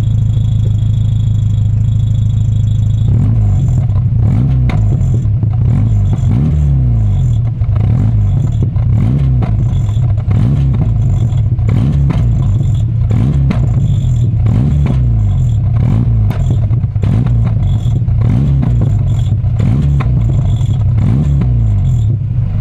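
Volkswagen Mk3 Golf estate's engine through its newly fitted exhaust, running steadily at first, then revved in quick repeated blips, the pitch rising and falling about once a second.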